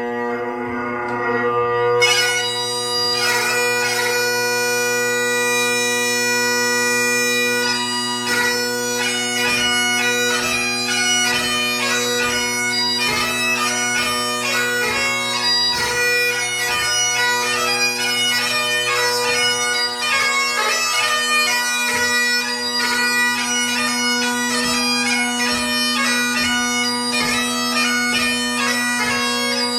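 Solo Great Highland bagpipe playing light music (ceol beag): the drones sound steadily under the chanter melody. About two seconds in the chanter swells on long held notes, and from about eight seconds in it runs through quick notes broken by grace notes.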